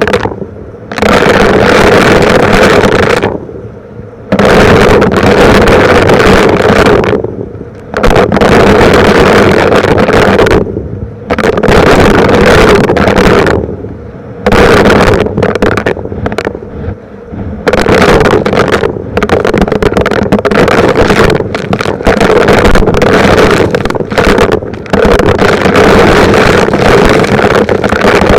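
Vacuum cleaner running loudly and picking up small rocks. The noise drops away briefly every few seconds as the nozzle is moved, then returns, with scattered clicks.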